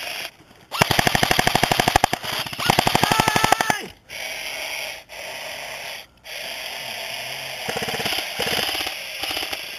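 Airsoft electric rifles firing full-auto: two rapid bursts of a second or so each in quick succession, then a fainter burst near the end.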